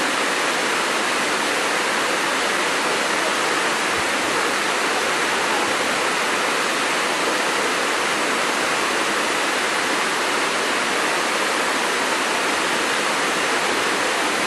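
Small waterfall spilling over a rock ledge: a steady rushing splash of falling water.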